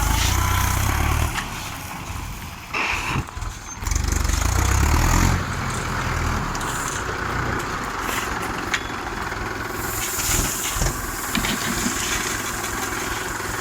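Mahindra DI 475 tractor's diesel engine running while its front bull blade levels soil, the low rumble growing louder twice, near the start and about four seconds in.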